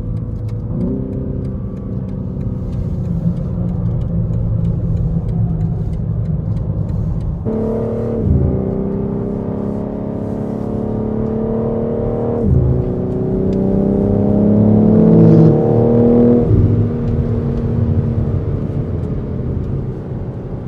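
Track car's engine heard from inside the cabin under hard acceleration on a circuit, the revs climbing through the gears with two sudden pitch changes at gear shifts. It is loudest near the top of the last pull, then the throttle comes off about sixteen seconds in.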